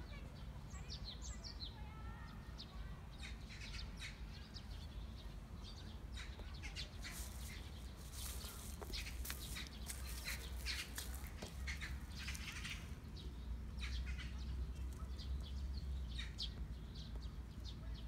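Small birds chirping, many short high calls that come thickest in the middle, over a low steady rumble.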